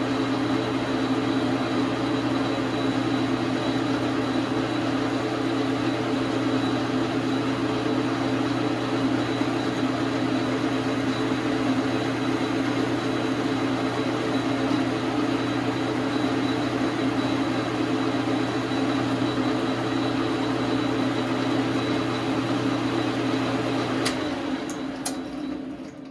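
Dar Sin 12 x 37 manual lathe running with a steady motor hum. Near the end a few sharp clicks come, the low part of the hum drops away and the sound fades out.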